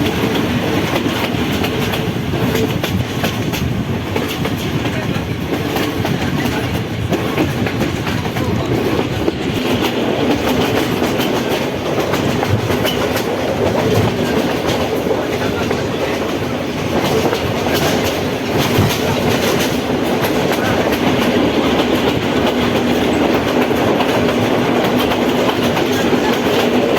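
Passenger train running along the line: a steady rumble of wheels on rails, with scattered clicks from the rail joints.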